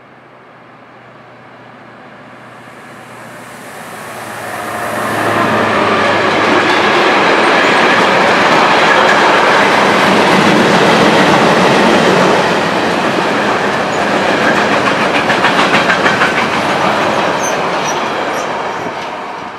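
ÖBB class 2016 (Siemens ER20 Hercules) diesel-electric locomotive hauling a freight train past. Its diesel engine grows louder on the approach and passes about five seconds in. The wagons' wheels then run by with a steady clickety-clack that fades near the end.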